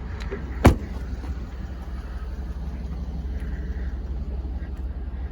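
Steady low rumble of a vehicle, with one sharp knock about two-thirds of a second in.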